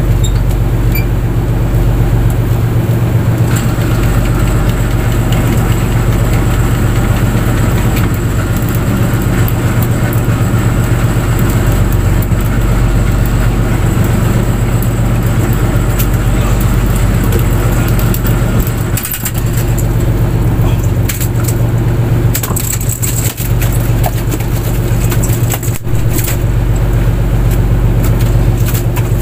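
Fishing boat's engine running steadily under a broad rushing noise, with scattered crackles and knocks, more of them in the second half.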